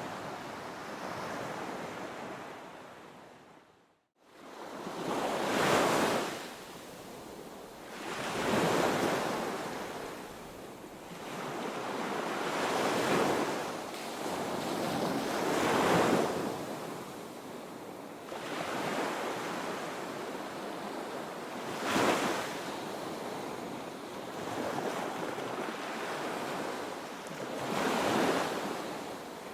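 Ocean surf breaking on a beach: a steady wash of water that swells into a louder crash every three to six seconds as each wave comes in. About four seconds in, the sound fades out almost to silence and comes straight back.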